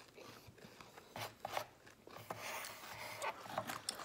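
Cereal being chewed close to the microphone, with plastic spoons scraping and clicking in disposable bowls: scattered clicks and short rasps, busier in the second half.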